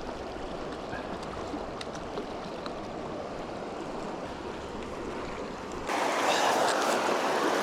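River current rushing steadily, with a few faint ticks. About six seconds in, the water turns abruptly louder and brighter.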